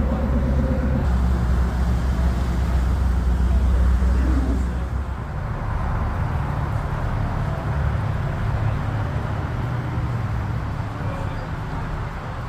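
A car engine running with a steady low rumble. It is loudest for the first four seconds or so, then drops back.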